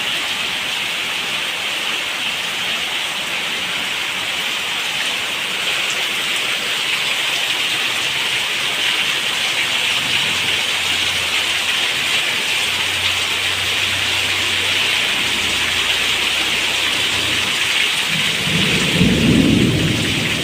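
Steady heavy rain falling. Low rumbles of thunder come in about halfway through, with a louder rumble near the end.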